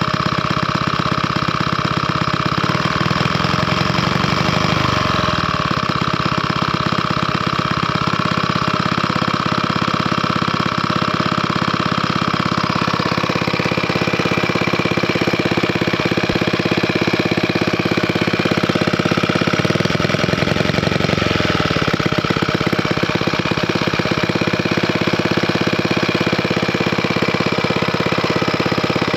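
Villiers Mark 9 stationary engine running steadily with a rapid, even firing beat. Its speed dips and recovers briefly about five seconds in and again around twenty seconds.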